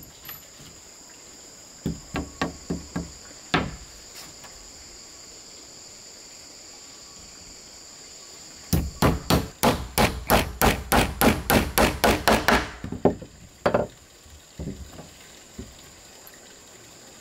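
Hammer blows on wood: a short run of quick blows, one more blow, a pause, then a longer run of about four blows a second for some four seconds, followed by a few scattered lighter taps. A steady high insect buzz runs underneath.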